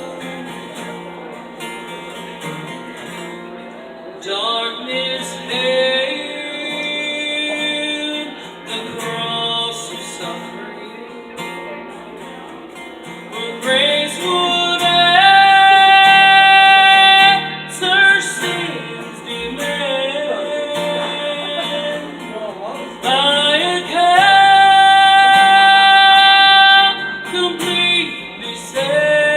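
Gospel song: a singer over guitar accompaniment, with two long held notes, the first near the middle and the second near the end, loudest of all.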